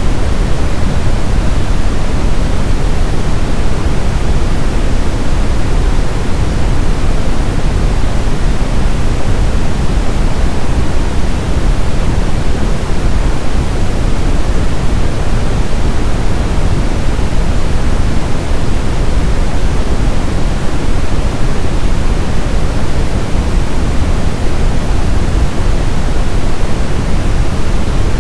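Steady brown noise: an even, deep rushing hiss, strongest in the low end and fading toward the highs, unchanging throughout.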